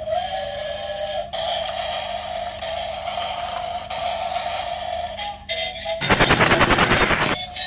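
Thin electronic melody of held notes; about six seconds in, a loud burst of rapid rattling pulses, about ten a second, lasts over a second and then stops.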